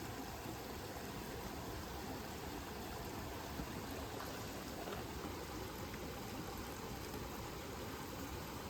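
Wood campfire burning with a steady rushing hiss and a faint crackle now and then.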